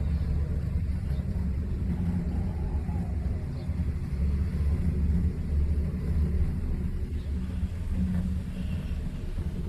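Low, steady rumble of a cable car gondola in motion, heard from inside the cabin.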